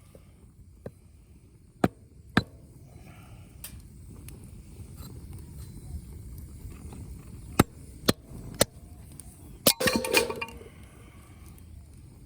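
Firewood snapping and knocking: about eight sharp, separate cracks, then a short clattering jumble about ten seconds in, over a low steady rumble.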